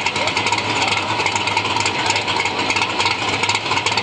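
Engine of a nitrous-equipped Chevy II hot rod running steadily, a loud, fast chatter of exhaust pulses with a rattly edge.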